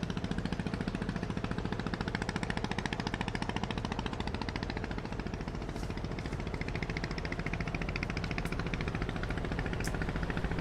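Diesel engine of a river sand-carrying boat running with a steady, rapid chugging pulse.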